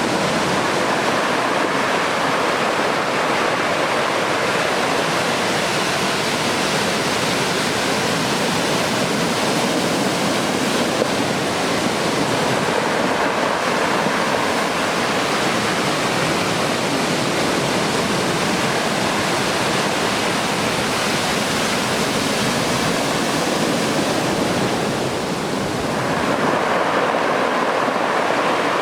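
Heavy typhoon-swell surf breaking continuously in closed-out conditions, a steady wash of noise that dips briefly near the end.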